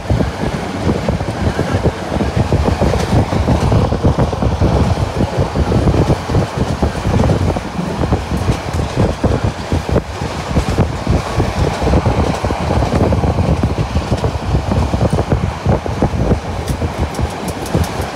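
Passenger coach of a moving train heard from inside: a loud, steady rumble of wheels on the track with continuous rattling and clatter.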